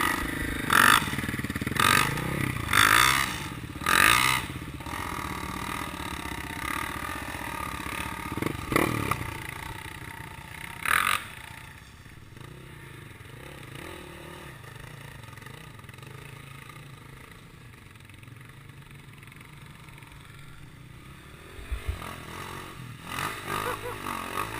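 Motocross motorcycle engines running, with several short louder bursts in the first few seconds, then dropping to a quieter, steady drone from about halfway through.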